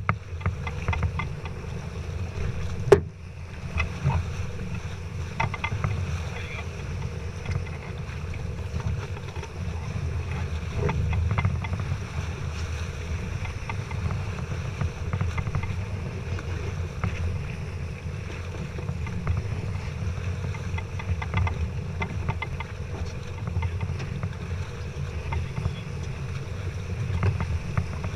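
Steady low rumble of a sailboat underway, with one sharp knock about three seconds in.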